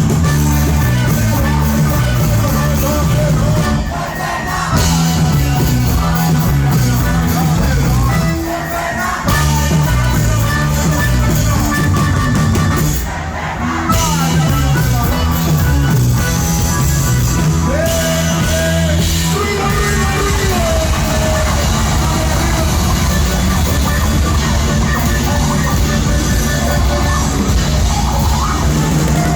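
Live band playing amplified music with bass guitar and drums, with a few short breaks where the bass and drums drop out.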